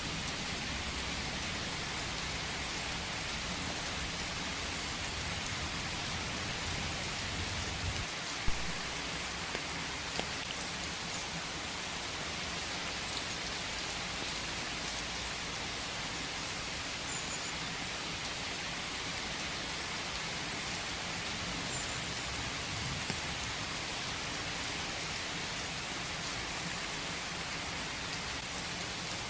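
Steady rain falling: an even hiss with scattered single drops ticking through it, and one sharper tick about eight seconds in.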